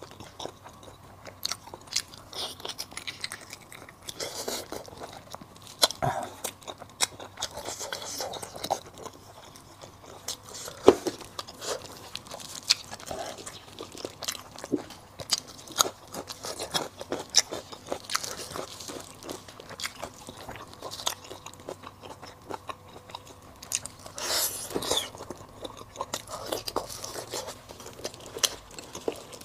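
Close-miked chewing and biting of sliced braised pig tongue in chili sauce: irregular wet mouth clicks and crackling chews, with a louder run of chewing near the end.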